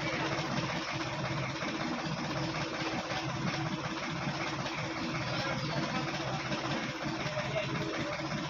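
Sonalika DI 750 tractor's diesel engine running steadily at a low, even speed.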